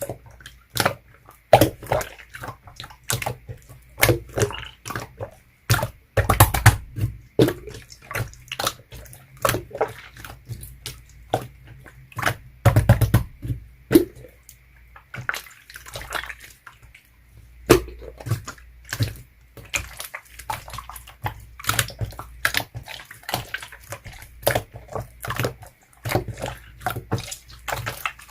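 Clear slime being squished, pressed and stretched by hands, giving an irregular run of sticky, wet pops and clicks, with a few louder squelches.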